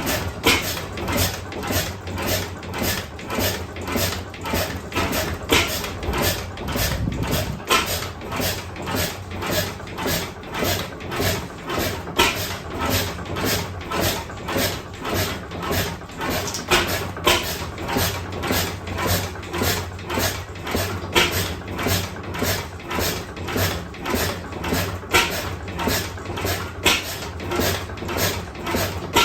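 Austral 5.5 hp sideshaft oil engine, a single-cylinder stationary engine, running at a steady slow beat of about two strokes a second over a low hum, with some strokes louder than the rest.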